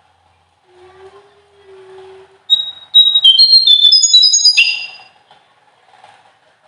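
A small songbird singing a loud burst of rapid, clear, high whistled notes that step upward in pitch for about two and a half seconds, starting a couple of seconds in: the sharp 'nembak' (shooting) song used in masteran bird-training recordings.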